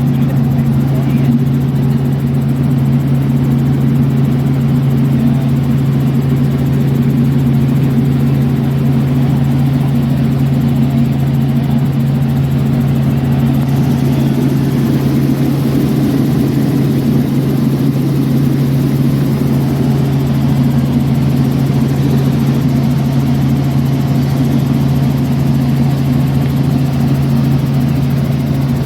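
An engine running steadily at a constant low pitch, with no rise or fall in speed.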